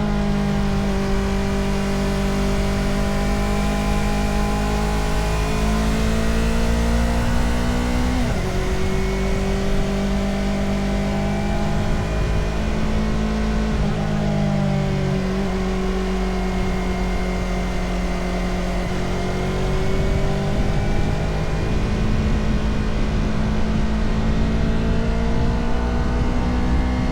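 Motorcycle engine running while riding, its pitch rising and falling with throttle and gear changes, with several sudden pitch steps, over a steady rush of wind noise.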